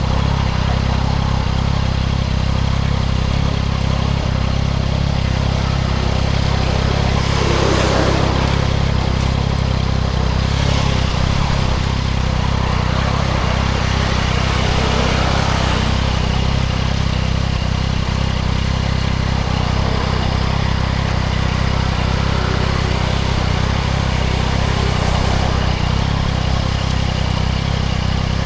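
2024 Yamaha MT-09 SP's inline three-cylinder engine running steadily through a Spark aftermarket exhaust, a strong low drone under a constant hiss. Brief swells rise and fall about 8, 11 and 15 seconds in.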